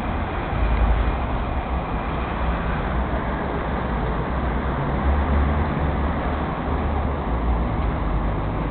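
Steady road traffic noise with a deep, uneven rumble.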